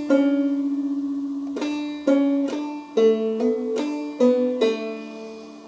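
Five-string banjo played clawhammer style in double C tuning, slowly picking a drop-thumb lick on the inner two strings (third string fretted at the 4th fret, second string open). About eight single notes and double stops are picked one at a time, each ringing out and fading, with the first note held longest.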